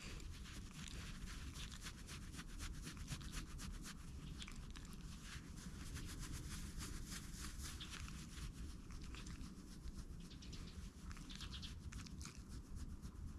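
Faint, continuous rustling and crackling of hands rubbing a moulting Shiba Inu's coat.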